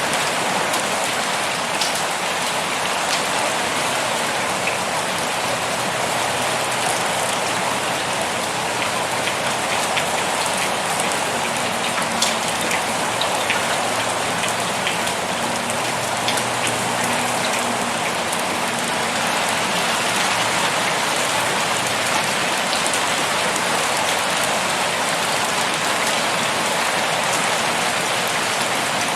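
Heavy rain pouring steadily, a dense even hiss with scattered individual drop ticks.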